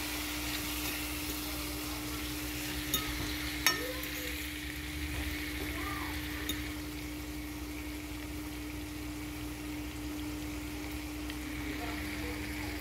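Pig trotters sizzling in hot curried oil in a frying pan, browning on high heat while being stirred, with two sharp knocks about three seconds in. A steady low hum runs underneath.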